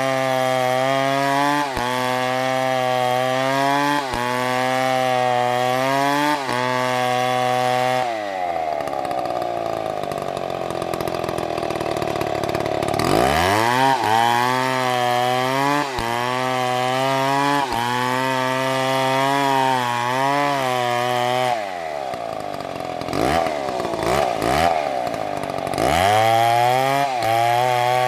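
Chainsaw engine running at high speed, dropping to idle about eight seconds in and revving back up a few seconds later. It drops again later, gives a few short revs, and returns to full speed near the end.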